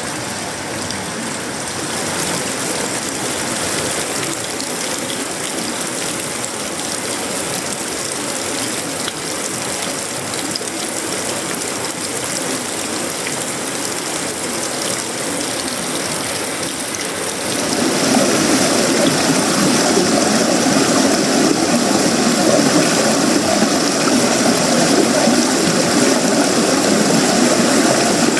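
Tropical rain falling on a sheet-metal roof, wood and leaves, a dense steady patter. About two-thirds of the way through it turns louder and deeper.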